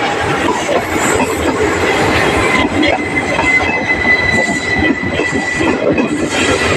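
Indian Railways 19270 Porbandar Express passing close by: coach wheels rumbling and clattering over the rails. A steady, high wheel squeal joins in about two seconds in.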